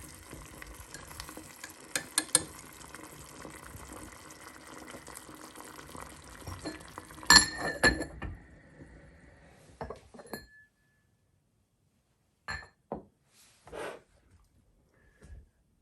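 Clinks of glass and dishes over a steady hiss, with the loudest clink about seven seconds in. After that the hiss stops and only a few short knocks follow.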